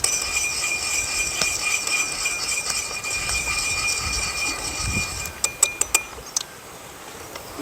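Cicadas buzzing steadily in a loud high chorus that cuts off about six seconds in, followed by a few sharp clicks.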